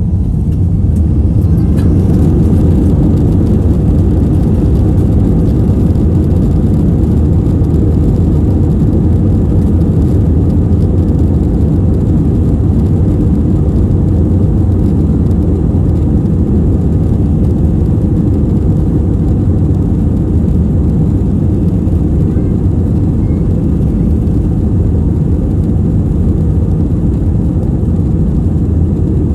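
Jet airliner's engines at takeoff power heard inside the passenger cabin: a loud, steady low rumble that swells in the first couple of seconds and then holds.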